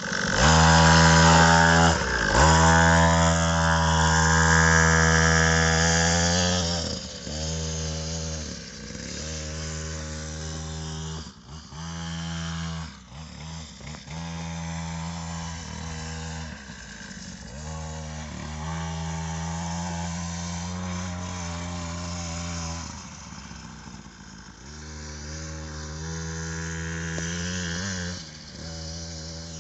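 Mini dirt bike's small engine revving and easing off repeatedly as it is ridden, the pitch dipping each time the throttle closes. It is loudest in the first several seconds, then quieter and rising and falling as the bike moves farther off and back.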